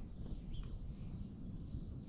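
Small wild birds giving a few short, high chirps, about half a second in and again faintly later, over a low steady rumble.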